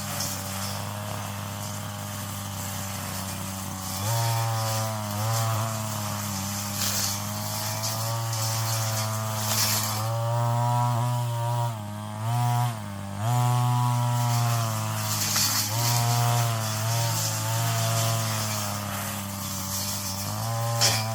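Petrol brush cutter engine running: steady for about the first four seconds, then rising and falling in pitch as it is throttled and loaded against weeds, with two brief dips in the middle.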